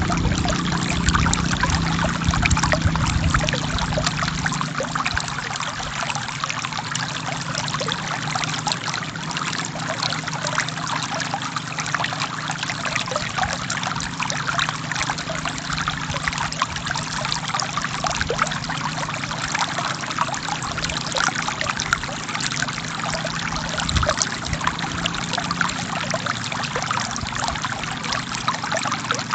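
Forest river flowing: a steady rush of water with dense small splashes and trickles, and a low rumble underneath that is a little stronger in the first few seconds.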